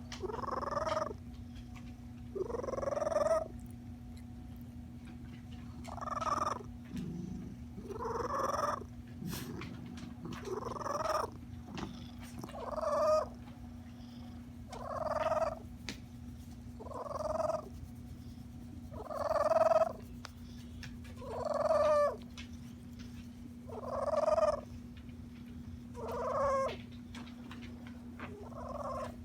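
Domestic cat making a strange voiced purr: a pitched, trilling call about a second long on each breath, repeating roughly every two seconds and swelling in loudness within each call.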